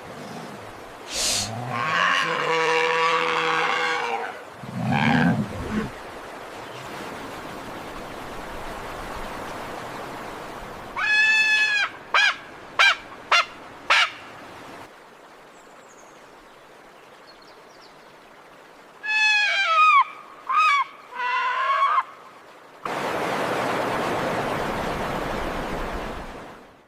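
Condor calls: a long, bleat-like call, then two groups of short, high-pitched chirping calls, and a long hiss near the end.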